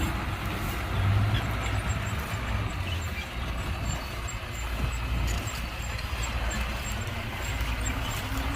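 Diesel engine of heavy earthmoving machinery running steadily with a low rumble, swelling briefly about a second in.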